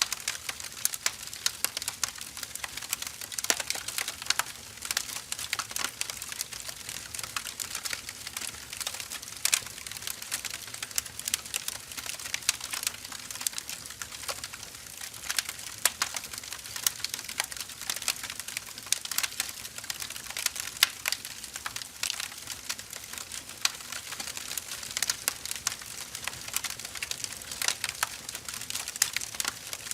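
Firewood burning in a fire, crackling: a steady stream of irregular small pops and snaps over a soft hiss.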